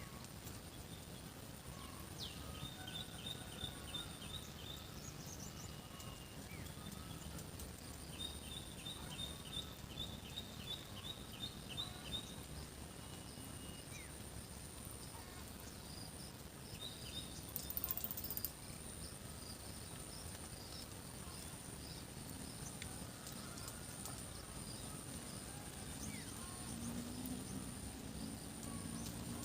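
Rural outdoor ambience: a steady high insect drone under birds singing short repeated trills, over a low background hum. About two-thirds of the way through, a brief louder hissing noise stands out.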